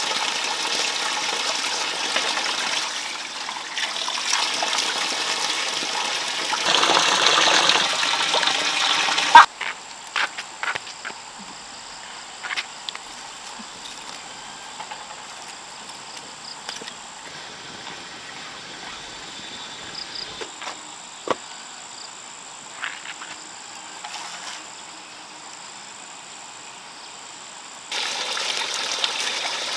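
Running water for about nine seconds, then a sudden cut to a quieter stretch with scattered knocks and clicks and a faint steady high tone; the water sound returns near the end.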